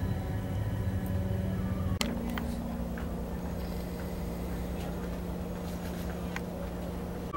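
Steady low rumble and hum inside a passenger train coach, with faint scattered clicks. The hum changes abruptly after a sharp click about two seconds in.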